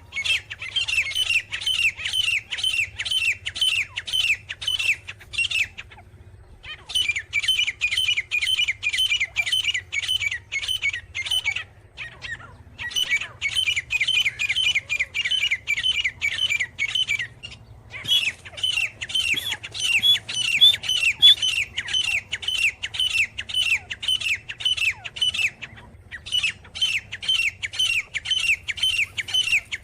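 Grey francolin calling: a loud, rapid run of repeated squawking notes, each dropping in pitch. The notes come in five long bouts separated by pauses of about a second.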